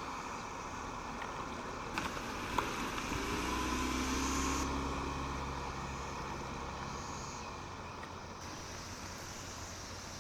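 A car driving, most likely the 2009 Mercedes-Benz SLK 300's 3.0-litre V6. Two sharp clicks come about two seconds in, then the engine and road noise swell to a peak about four seconds in and fade away toward the end.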